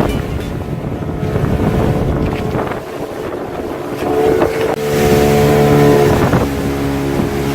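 Motorboat engine running under way, with wind buffeting the microphone; from about four seconds in the engine's steady hum comes through more strongly.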